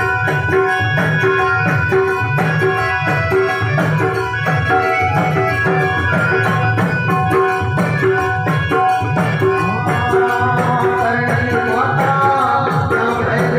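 Indian folk devotional music: a hand drum keeps a steady beat under held notes from a melodic instrument, with busier melody near the end.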